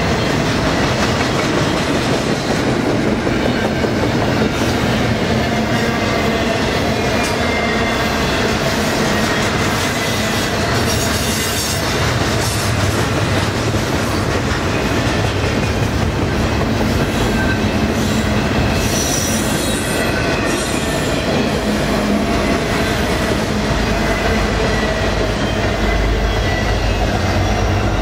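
Double-stack container train rolling past: a steady rumble and clatter of loaded well cars on the rails, with brief high wheel squeals around the middle. Near the end a deep diesel rumble comes up as the rear distributed-power locomotive arrives.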